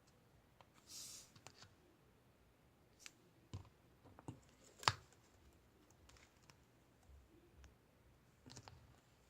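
Grey marbled slime being squished and pressed by hand, making scattered soft clicks and little pops. A brief rustle comes about a second in, and the loudest pop about five seconds in.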